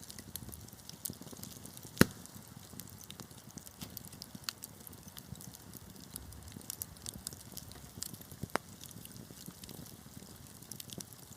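Wood fire crackling, with scattered sharp pops and snaps over a low hiss; one loud pop about two seconds in and another near the end.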